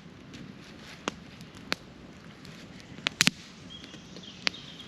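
Campfire crackling: a few sharp pops of burning wood at irregular intervals, with a quick cluster of them about three seconds in.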